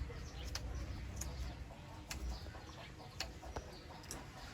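Aseel chicks making a few faint, short sounds, scattered sharp clicks and chirps over a low background rumble.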